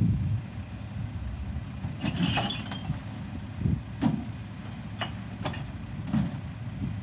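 Garbage truck engine running, with several sharp metallic knocks and a short hiss about two seconds in.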